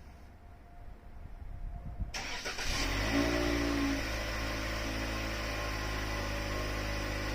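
Toyota Harrier (80 series) engine starting by remote start: it cranks and catches about two seconds in, runs a little higher for about a second, then settles into a steady idle.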